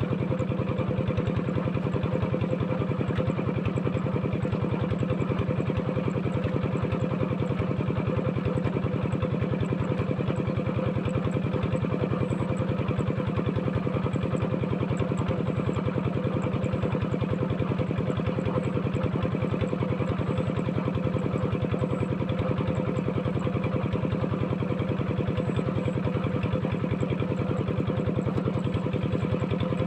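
Diesel tractor engine running steadily with an even, rapid firing beat that does not change.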